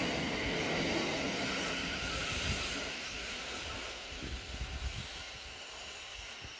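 Thameslink Class 700 electric train running away along the track, its rumble and hiss fading steadily. A few low thumps come about four to five seconds in.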